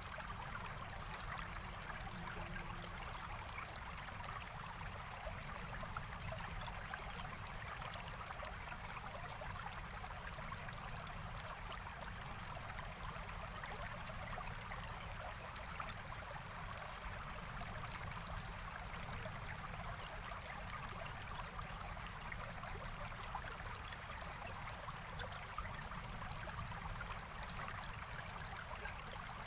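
Forest stream flowing steadily, an even, unbroken sound of running, trickling water.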